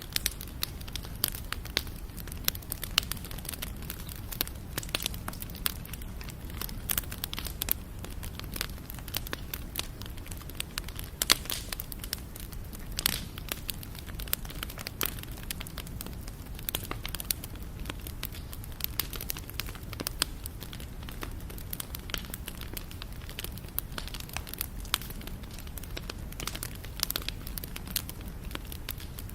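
Wood fire crackling and popping, with frequent sharp snaps over a low steady roar of the flames.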